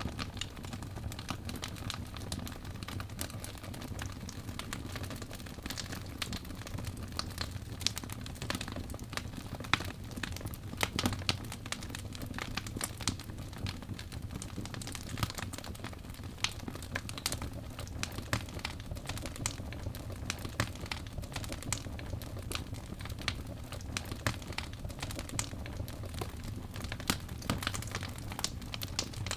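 Fireplace fire crackling: many irregular sharp pops and snaps, a few louder ones around the middle, over a steady low rumble of the burning.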